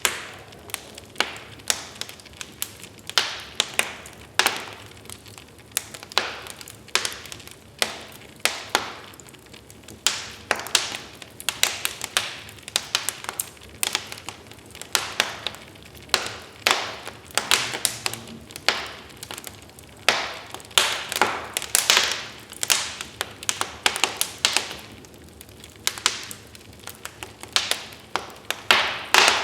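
Wood fire burning in a fireplace, crackling with irregular sharp pops and snaps, sometimes several in quick succession.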